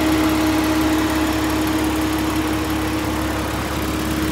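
2000 Porsche Boxster 2.7's flat-six engine idling steadily, heard from underneath with the cooling fan running, giving an even hum. There are no exhaust blows: the manifolds and exhaust are sealed.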